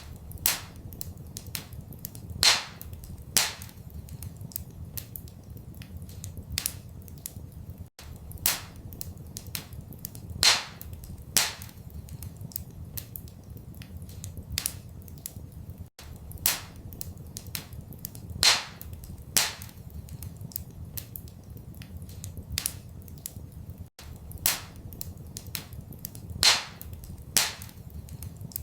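Wood fire in a fireplace crackling, with irregular sharp pops and snaps, a few much louder than the rest, over a steady low rumble. It is a short recording looped about every eight seconds, with a brief dropout at each seam.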